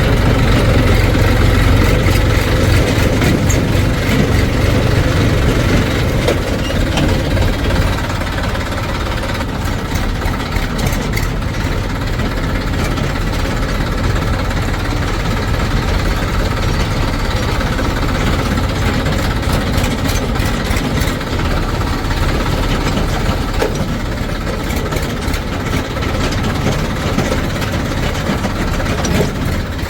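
Diesel engines of a backhoe loader and farm tractors running steadily, a little louder for the first several seconds, then settling.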